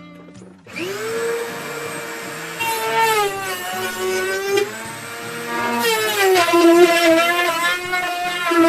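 Dremel rotary tool spinning up about a second in to a steady high whine, cutting out the button openings in a replica car upper console. Its pitch sags twice as the bit bites into the material, then recovers.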